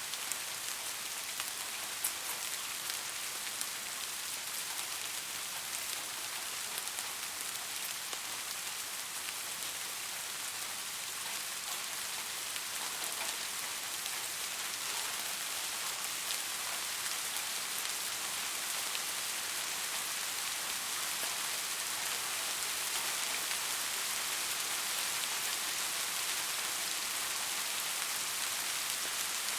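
Steady rain falling on a surface, with a dense even patter and scattered individual drop ticks.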